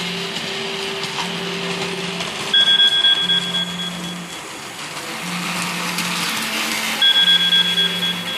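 Model railway layout running, with a mechanical whirr throughout. A high, rapid electronic beeping sounds for about a second twice, about a third of the way in and near the end. Under it, a low hum switches on and off at a steady, slow rhythm.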